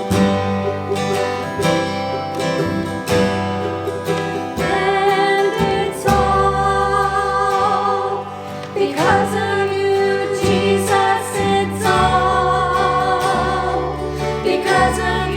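Gospel song performed by singers with instrumental accompaniment: held, wavering sung notes over a steady bass line.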